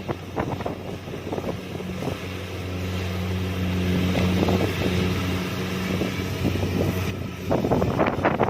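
Kubota DC-70 Plus combine harvester running steadily under load, its diesel engine giving a low, even hum, with irregular bursts of rushing noise from the cutting and threshing over it.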